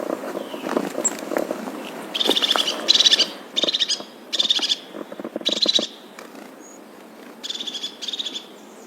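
A bird calling in short, buzzy, rattling trills, each about half a second long and repeated in groups of two or three from about two seconds in, over faint rustling.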